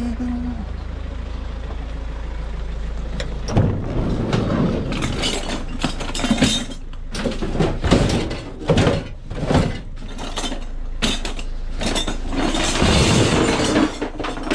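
A vehicle engine idling with a steady low hum, then from about three and a half seconds in a run of irregular knocks and clatters of scrap being handled.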